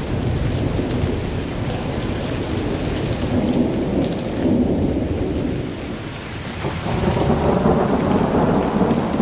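Thunderstorm: steady rain with thunder rumbling low and continuously. The rumble eases about six seconds in and swells again a second later.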